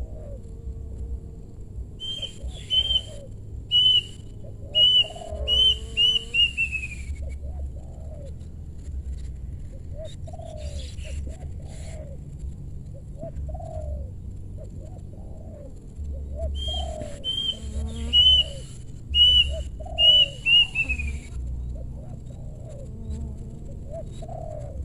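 Spotted doves cooing over and over in low, rounded notes, a decoy calling to lure wild doves. Twice a much louder run of sharp, high repeated notes breaks in from another bird, each run ending in a quick falling series.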